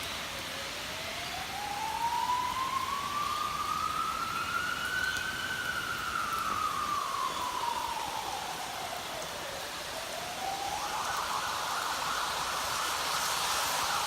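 Ambulance siren sounding a slow wail, rising for about five seconds and falling for four, then switching to a fast yelp about eleven seconds in. Steady rain hiss sits underneath.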